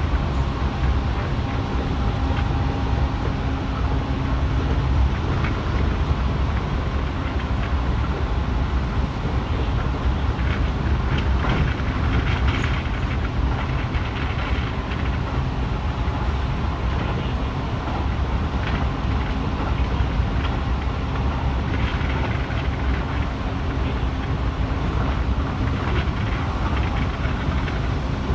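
Keihan 3000 series electric train running along the line, heard from inside the car: a steady low rumble of wheels on rail with scattered clicks and a faint hum that comes and goes.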